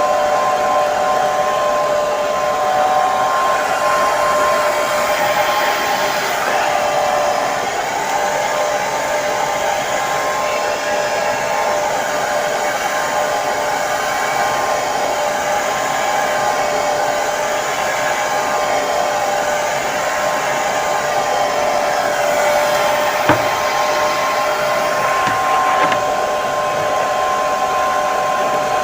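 Hair dryer running steadily: an even rush of blown air with a constant whine from its motor and fan. There is one brief click about two-thirds of the way through.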